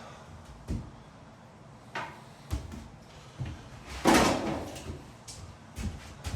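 A series of irregular light knocks and thumps, about seven in all, with a longer brushing swish about four seconds in.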